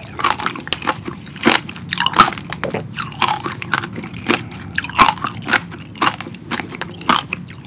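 Close-miked chewing of strawberry tanghulu, fresh strawberries in a hard candied-sugar shell. The shell crunches and cracks in an irregular run of crisp crackles as it is bitten down.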